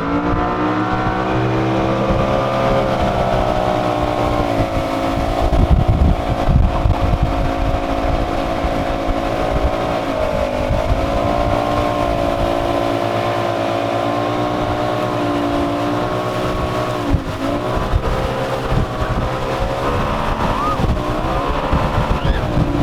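Motorboat engine running steadily under way, its pitch dipping briefly and recovering about ten seconds in, again near 17 seconds, and once more near the end. Wind buffets the microphone now and then.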